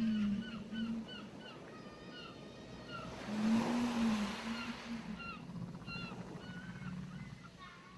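Surf washing onto a beach, swelling to a peak about three to four seconds in, under a steady stream of short bird chirps. A low whale moan sounds twice, at the start and again as the wave peaks.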